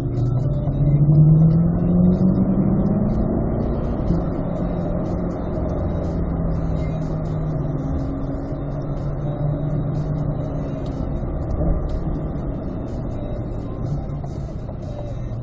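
2021 C8 Corvette Z51's V8 engine heard from inside the car, rising in revs for about the first two seconds and then running at a fairly steady speed under light throttle.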